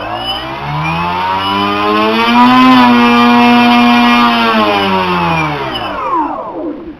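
Turnigy 3648 1450 kV brushless outrunner motor spinning an 11x5.5 electric propeller on two cells, run up to a high steady whine, held for a couple of seconds, then throttled back down until it stops near the end.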